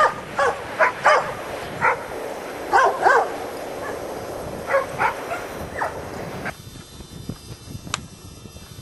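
Dog barking and yipping in quick short calls for about six seconds, then stopping abruptly; a sharp click follows later.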